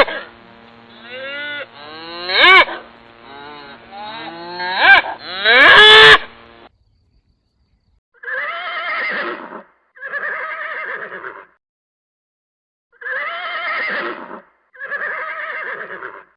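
Animal calls: a run of pitched calls gliding up and down, then after a short pause four rough, drawn-out calls of about a second each.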